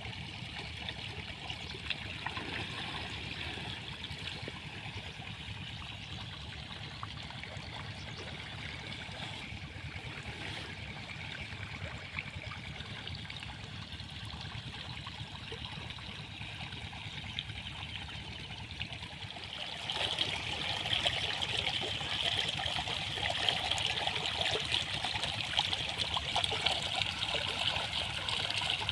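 Pumped irrigation water flowing out of a 4-inch plastic pipe, running steadily, and getting louder about two-thirds of the way through.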